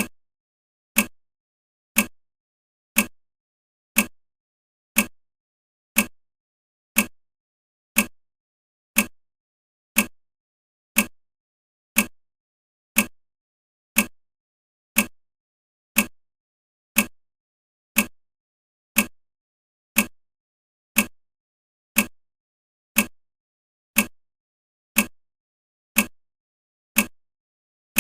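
Countdown timer's ticking sound effect: one short, sharp tick every second, perfectly evenly spaced, marking off the seconds of the countdown.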